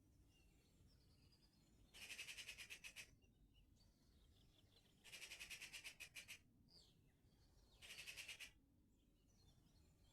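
A small songbird repeating a short, fast, even trill of about a second, three times a few seconds apart. Fainter chirps of other birds sound in between.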